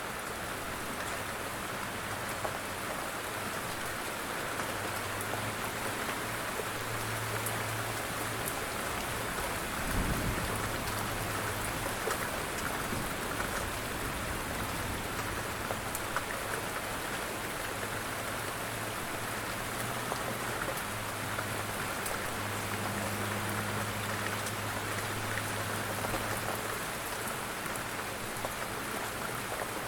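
Light rain falling steadily, a continuous patter with individual drops ticking on a surface. There is a brief low thump about ten seconds in, and a faint low hum comes and goes.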